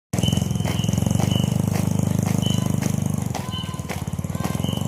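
A steady low motor drone with regular beats about every half second and short high whistle-like blasts repeating in a marching rhythm.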